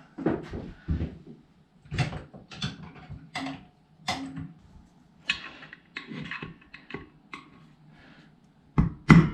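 Irregular clicks and knocks of tools and metal parts being handled while working on a motorcycle front wheel hub's speedometer gear drive. Music with an even beat comes in near the end.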